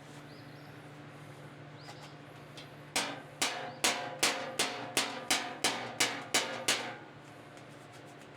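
Body hammer striking the steel fender against a dolly, about eleven sharp ringing blows at a steady pace of roughly two and a half a second, starting about three seconds in and stopping about a second before the end, over a steady shop hum.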